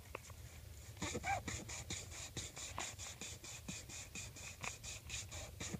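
Sandpaper rubbed back and forth on the end of a 2-inch PVC water pipe, fast even scratchy strokes about four or five a second that start about a second in, roughening the pipe end so the glue will seal.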